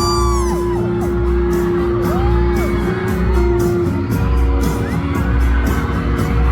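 Live K-pop concert music with a steady beat and one long held sung note, with high whooping screams from the crowd over it near the start.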